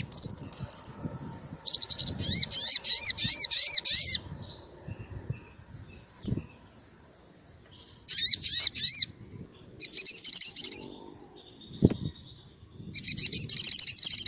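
A sogon sunbird singing in four bursts of fast, sharp, high chirps, each lasting one to two seconds with short pauses between.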